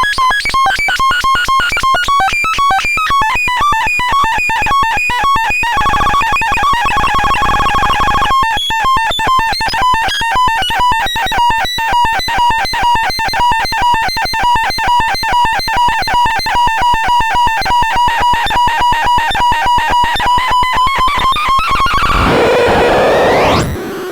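Electronic sound effect of rapid beeping tones, about five a second, pitched around 1 kHz. A brief steadier two-tone stretch comes about six seconds in, and it ends in a noisy sweep rising in pitch.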